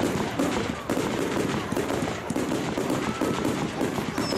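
Fireworks crackling and popping in rapid succession from a ground-level spark fountain with bursting stars. Near the end, high whistles with falling pitch begin from whistling fireworks.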